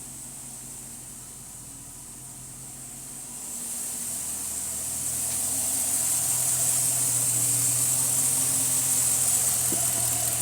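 Chrysler 300C's 5.7 L Hemi V8 idling steadily, with a constant hiss over it; the sound grows louder about four seconds in, then holds steady.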